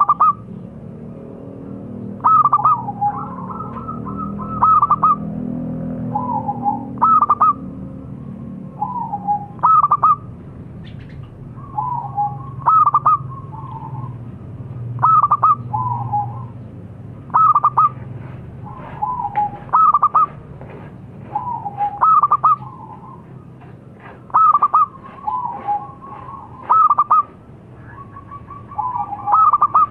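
Zebra dove (perkutut) cooing. It repeats its trilled coo phrase about once every two and a half seconds, over a low background hum.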